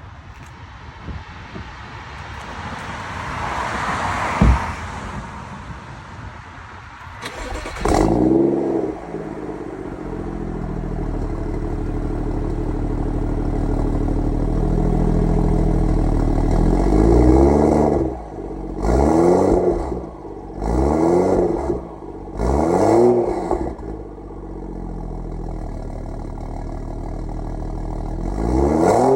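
BMW M235i engine starting about eight seconds in after a sharp click, flaring up and settling to idle, then revved in four quick blips that rise and fall before it drops back to idle. It is recorded to show a problem with the exhaust.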